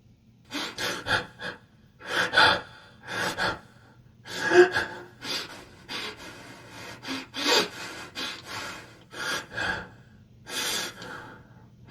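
A person's breathy sounds: short, irregular gasps and exhalations.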